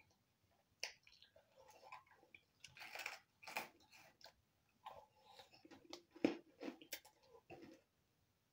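A person eating instant noodles from a paper cup with a fork: faint chewing and mouth noises with small clicks, the sharpest click about six seconds in.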